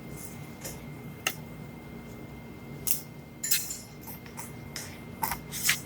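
Scattered short clicks and smacks of a toddler eating oatmeal, about seven sharp ticks spread irregularly over a few seconds.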